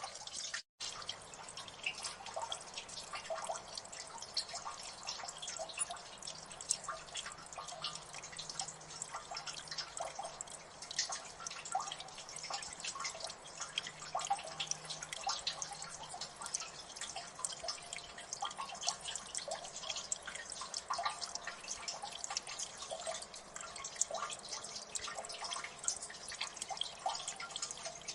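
Water dripping in a gully: a dense, steady patter of many quick, overlapping drips, with a momentary gap in the sound under a second in.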